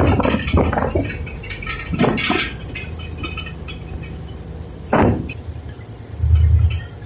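Engine of a sand-dredging boat running steadily, with wind gusting on the microphone and a loud low buffet near the end.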